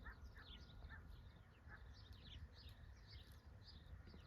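Faint chirping of small birds, many short high calls at irregular intervals, over quiet open-air background.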